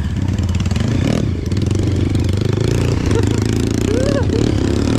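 Trail motorcycle engine running steadily at moderate revs while being ridden.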